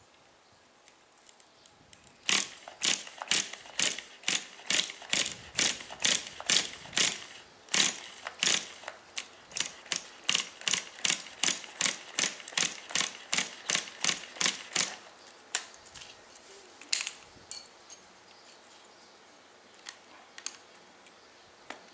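Ratcheting clicks of a hand tool unscrewing the glow plug from a nitro RC car engine: an even run of sharp clicks, about three a second, lasting some twelve seconds, then a few single clicks.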